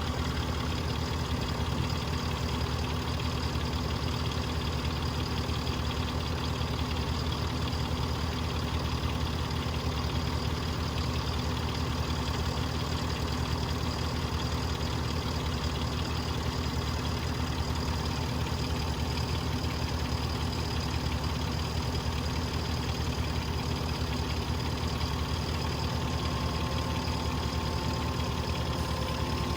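Engine of farm machinery idling steadily.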